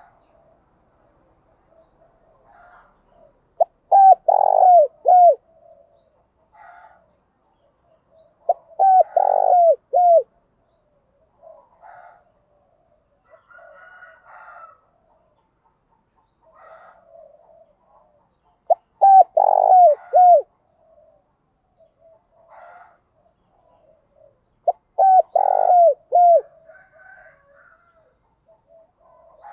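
Spotted dove cooing: four loud phrases, each a quick run of short falling coos, spaced several seconds apart, with softer calls between them.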